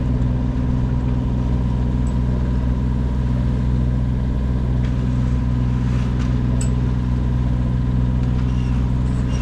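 A sailing yacht's inboard engine running at a steady speed under way, an even low hum that holds unchanged throughout.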